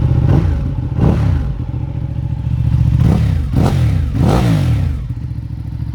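Ducati 959 Panigale's Superquadro L-twin engine through an Akrapovic underslung exhaust, blipped five times from idle, each rev rising sharply and falling back, then settling to a steady idle.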